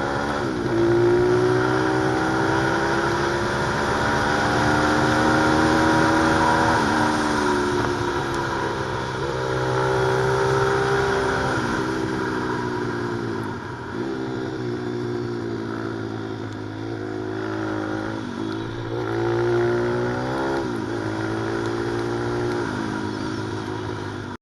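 Pit bike engine run hard on a track: its pitch climbs steadily, then drops sharply every two to three seconds as it shifts or rolls off, and climbs again.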